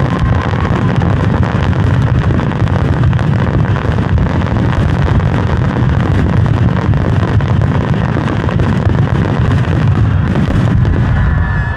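Finale barrage of aerial firework shells bursting in quick succession, the booms running together into one continuous loud din with no break.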